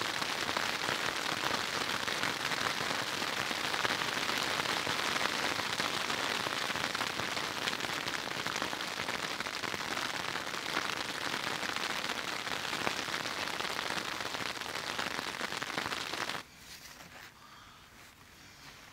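Hail and rain falling on a tarp overhead: a dense, steady hiss of many small hits. It cuts off abruptly about 16 seconds in, leaving a much quieter background.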